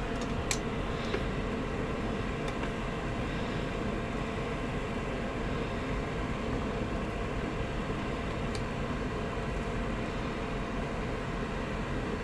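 A steady low mechanical hum with a couple of faint light clicks.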